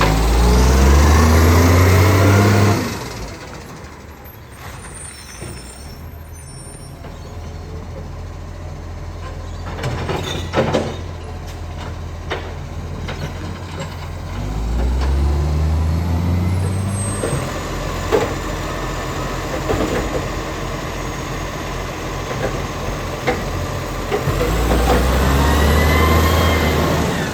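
Acco side-loader garbage truck engine with an exhaust leak, revving up and holding high three times about ten seconds apart, dropping back to idle in between. There is a short sharp noise about ten seconds in.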